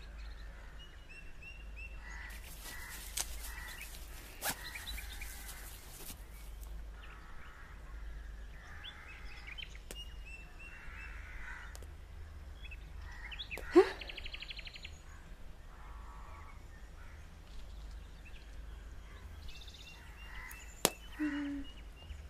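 Birds calling: repeated short high chirps and a few longer, rougher caw-like calls over a faint steady low hum. A few sharp clicks are scattered through it, the loudest about fourteen seconds in.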